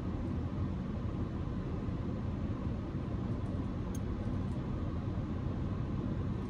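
Steady low hum of a stationary car with its engine idling, heard from inside the cabin, with a faint click about four seconds in.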